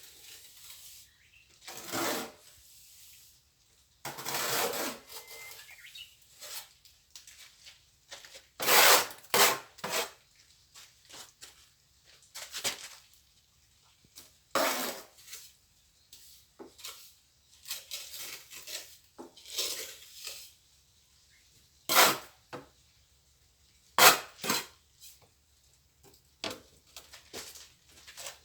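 Plastering work: a trowel scraping and tapping on wet mortar in irregular strokes, with a couple of sharp knocks about two-thirds of the way through.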